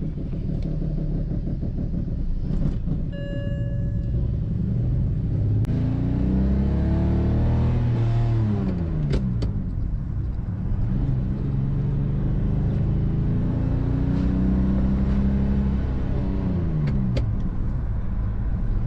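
BMW 325i straight-six engine, described as very rough running, pulling through the gears with a manual gearbox: the revs climb, then drop sharply at a gear change, twice. A brief beep about three seconds in.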